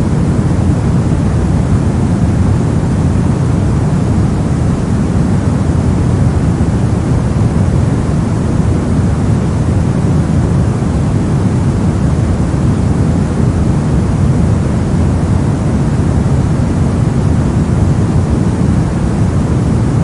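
Brown noise: a steady, deep rumbling hiss with its energy heavy in the lows and fading toward the highs, unchanging throughout.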